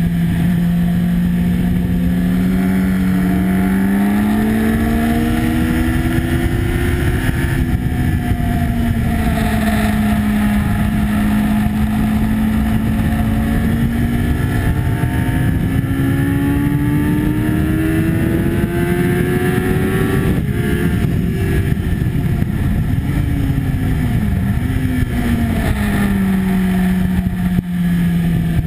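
Sport motorcycle engine ridden hard from an onboard camera, with heavy wind noise over the microphone. The engine note climbs slowly through a long stretch of acceleration, then drops with a few quick blips about twenty seconds in as it downshifts, and runs lower near the end.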